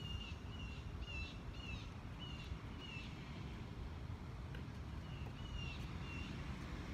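A bird calling: a short slurred note repeated about twice a second, with a pause of about two seconds midway, over a low steady rumble.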